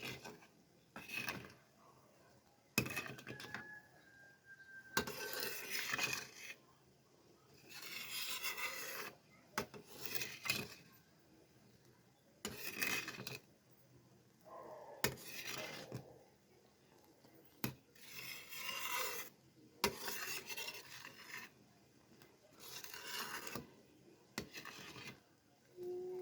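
Repeated rasping scrapes of a kitchen utensil, about ten separate strokes each lasting around a second, with a few sharp clicks between them.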